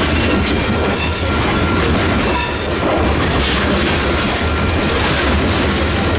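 Freight train cars rolling past with a steady rumble of wheels on rail. Short high-pitched wheel squeals ring out about one second and two and a half seconds in.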